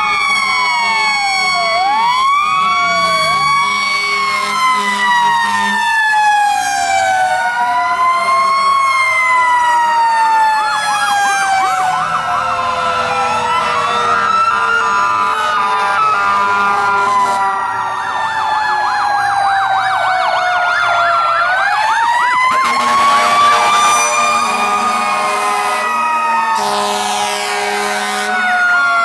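Several fire truck sirens sounding together. A Federal Q mechanical siren winds up to its peak and falls slowly away, and electronic sirens wail, switching to fast yelps in places.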